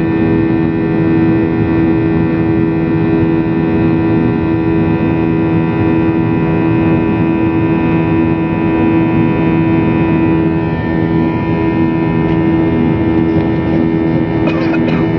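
Airliner engines droning steadily, heard inside the passenger cabin: a loud, even hum with several fixed tones over a rushing noise.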